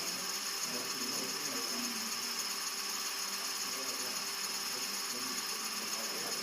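Single-blade model helicopter rotor spun by a small electric motor at a constant speed: a steady mechanical whir with a fast rattling tick, unchanging throughout.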